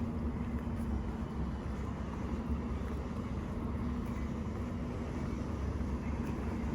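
Steady low rumble of city street traffic, with a constant low hum running through it.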